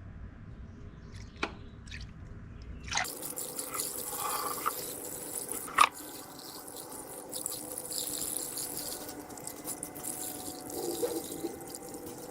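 Liquid dripping and trickling, with scattered clicks and one sharp knock about halfway through.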